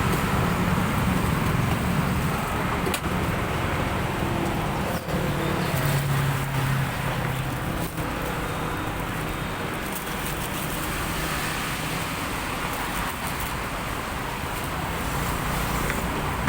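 Steady road traffic noise with vehicles passing, a low engine hum that is strongest in the first several seconds.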